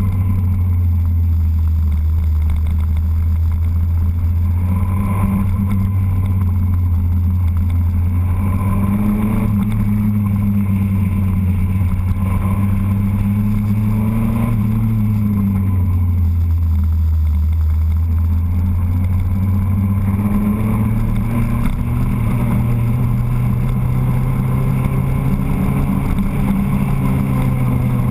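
Motorcycle engine running under way, a low drone whose pitch rises and falls several times with the throttle, heard up close from a camera on the bike.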